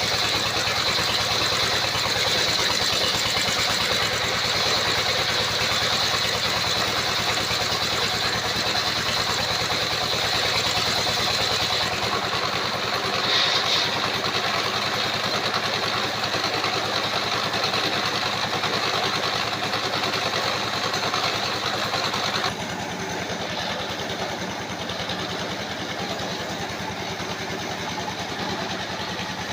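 Engine-driven circular sawmill running: a steady machine drone with a high whine from the blade. The level drops suddenly about three-quarters of the way through, with a brief louder flare earlier on.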